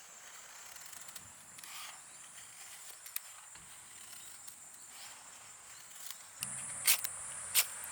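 Insects trilling steadily at a high pitch, with a few sharp clicks near the end.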